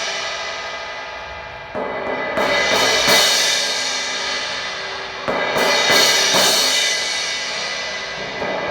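Cracked Zildjian 17" K Custom Hybrid crash cymbal struck several times in quick groups, each hit ringing out and slowly decaying. The crack's edges touch each other on every hit, which the player hears in the sound.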